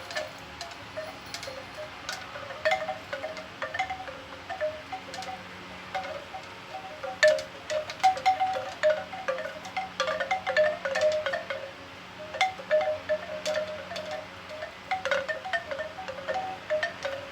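Bamboo wind chime, its hollow tubes knocking together irregularly in the wind, in loose clusters of several pitched notes that come thicker and louder from about the middle on.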